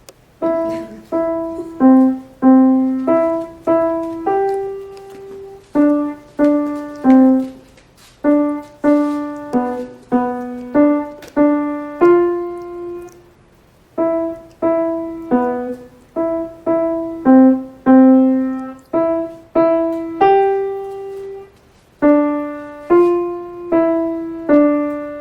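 Piano played by a child, one note at a time: a simple melody in short phrases with brief pauses between them.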